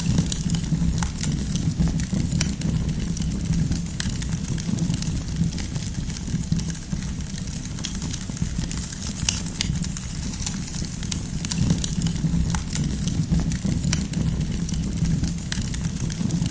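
Wood campfire burning: irregular sharp crackles and pops of the firewood over a steady low rumble of the flames.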